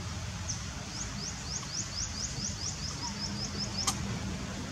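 A bird calling a series of about fourteen quick, high, upward-sweeping chirps that come faster and faster, ending in a sharp click a little before the end, over a steady low background rumble.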